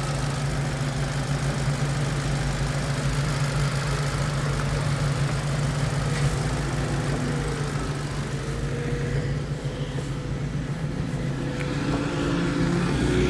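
Opel Agila A's 1.2-litre Z12XEP four-cylinder petrol engine idling steadily during an engine test, getting a little louder near the end.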